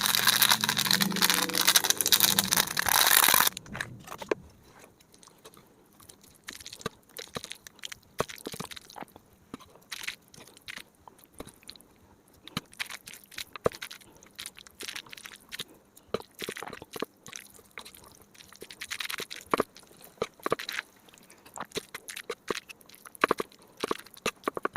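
Close-miked eating of Samyang noodles: soft wet chewing, smacking and slurping in scattered short clicks and crackles. It opens with about three seconds of a loud rushing noise that cuts off suddenly.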